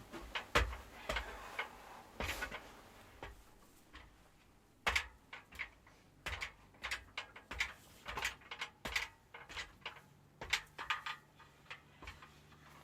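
Irregular light clicks and taps, several a second, from hand work with tools. They pause briefly about four seconds in and resume.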